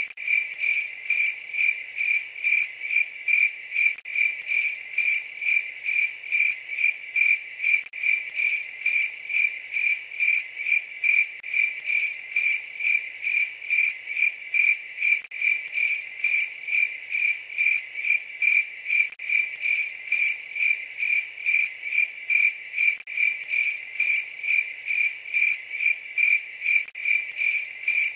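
Cricket chirping in an even, steady rhythm, about two high chirps a second.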